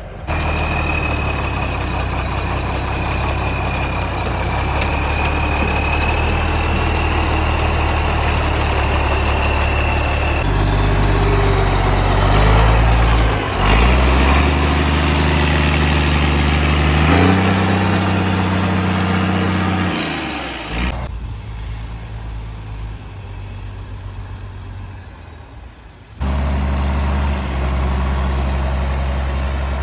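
REO M52A1 6x6 military truck engine running, its low note stepping up and down in pitch as it is revved and worked through the gears, with a thin high whine over it in the first part. The sound changes abruptly several times, and in the last third it drops quieter for a few seconds before coming back loud.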